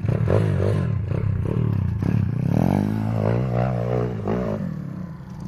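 Pit bike engine running and being revved up and down repeatedly, its pitch rising and falling, easing off near the end.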